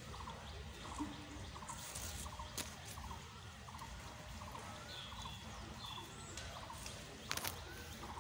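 Faint bird calls: a short pulsed call repeating steadily, a little faster than once a second, with a few higher whistled notes after the middle. Two brief clicks stand out, one near the middle and one near the end.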